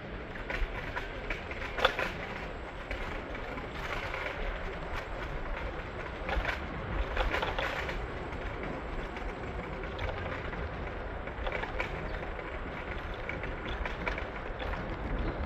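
PATH train running on the rails: a steady rumble with scattered clanks and knocks, the loudest about two seconds in, and a busier stretch of clatter around the middle.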